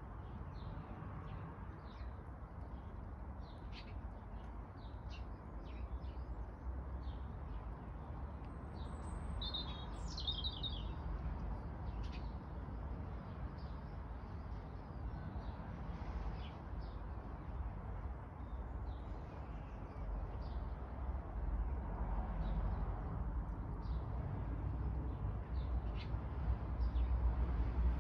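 Small birds chirping in short, scattered calls, with one fuller sweeping, trilled call about ten seconds in, over a steady low background rumble.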